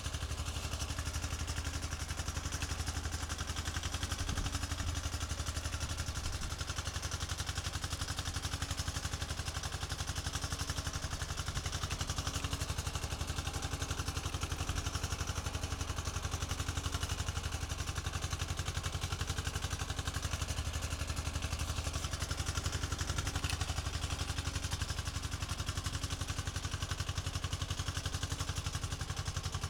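Yanmar tractor's diesel engine running at a steady pace as the tractor drives along.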